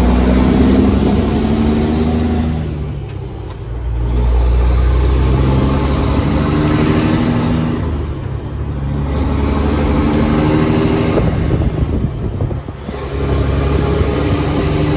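Diesel engine of a Peterbilt semi truck pulling hard up through the gears, with a turbo whistle climbing as the engine winds up. The engine note drops off briefly at each shift: three times, about three seconds in, just past the middle, and again about four-fifths through.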